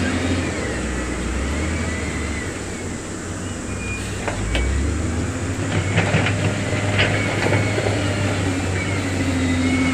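Heavy diesel construction machinery running under load, a steady low engine drone, with several sharp clanks of stone and steel about halfway through.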